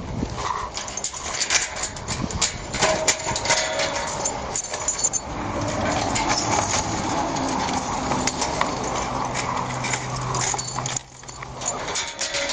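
Footsteps and the rustle of clothing and gear on a body-worn microphone as the wearer walks, with an animal calling in a drawn-out sound through the middle.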